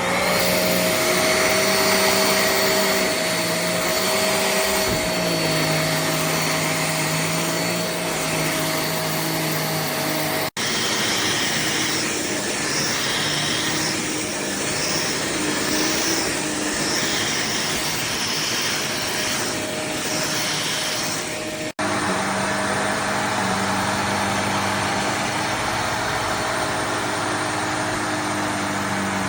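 Jimmy JV35 corded handheld mattress vacuum running steadily at full suction. Its motor hum shifts slightly in pitch as it works, and the sound drops out abruptly twice for an instant.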